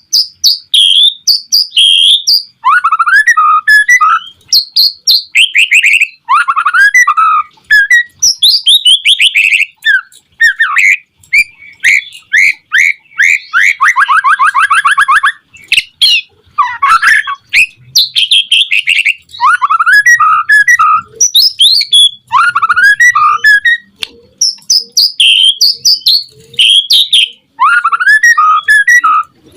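White-rumped shama singing continuously in loud, varied phrases of whistles and chirps. About halfway through it breaks into a fast, rattling trill.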